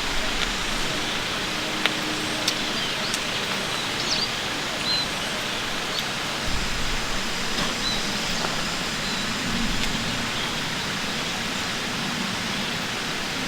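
Steady outdoor rushing noise, an even hiss, with a few faint high chirps and small clicks over it.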